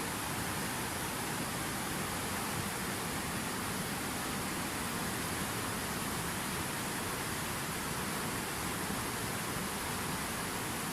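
Steady rushing water, an even unbroken hiss with no changes.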